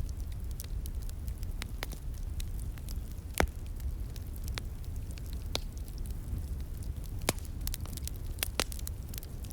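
Wood fire crackling, with sharp irregular pops (the loudest about three and a half seconds in), over a steady low rush from a flowing stream.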